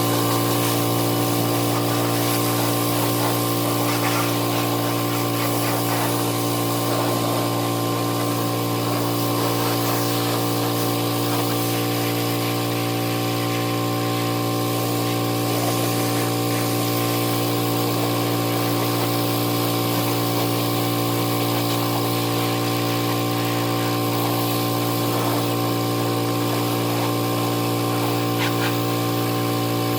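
Pressure washer running steadily, its pump motor humming under the hiss of the spray, while rinsing degreaser off an ATV.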